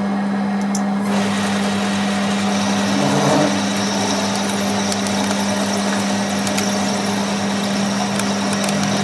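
A workshop machine running steadily with a constant low hum.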